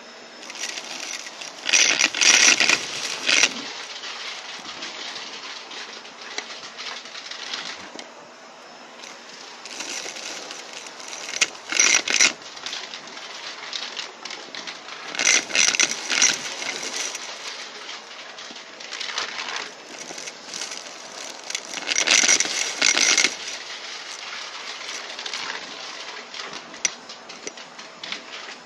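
Vacuum cleaner running, with four loud bursts of crackling and rattling as it sucks up crunchy debris.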